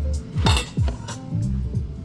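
Kitchen dishes and utensils clinking a few times, about half a second in and shortly after, over background music.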